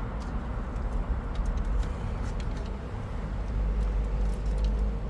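Steady low background rumble with a few faint, short clicks and taps of fuel pump parts being handled and fitted.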